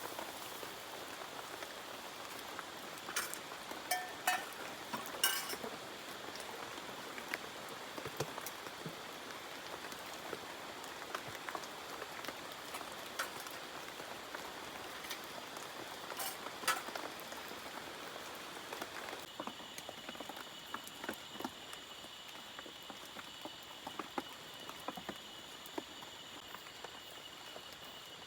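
Steady rain falling, with scattered louder drops ticking sharply, and a thin steady high insect trill that changes pitch about two-thirds of the way through.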